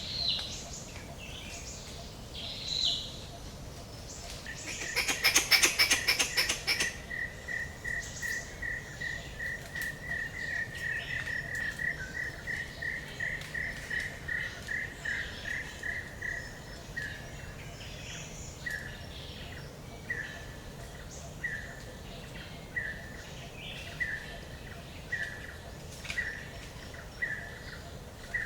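Forest ambience with birds chirping and a call of short high notes repeated several times a second, slowing to about one every second and a half. About five seconds in, a brief rapid burst of sharp knocks stands out as the loudest sound.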